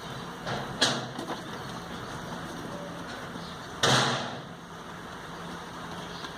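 A few sharp knocks about a second in, then a louder, longer thump about four seconds in, over a steady low hum.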